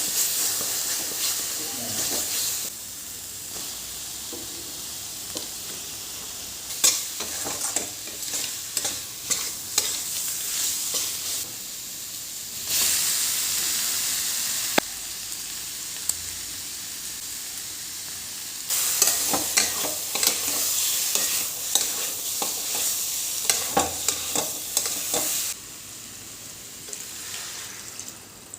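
Food sizzling in a hot pan while a spatula stirs and scrapes it, with frequent clicks of metal on the pan. The sizzle switches abruptly between louder and softer stretches.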